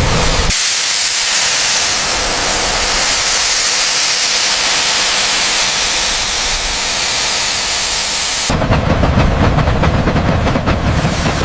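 Loud, steady hiss of a pressurised jet, concentrated in the high end. About eight and a half seconds in it turns into a fuller, rougher rushing noise with a fine crackle.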